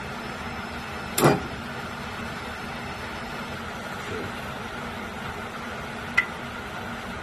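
A single brief bump of the starter on the 1957 Ford Ranchero, turning the engine over for a moment, about a second in. A sharp click comes near the end, over a steady background hum.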